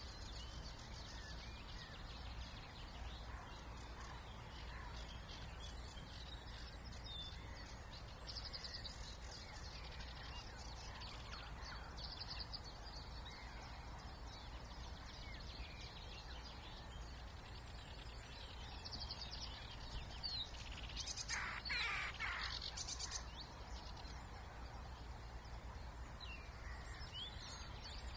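Spring wetland bird ambience: several small songbirds singing short phrases, with one louder, harsh call a little after twenty seconds in. A steady low hum of distant noise lies underneath.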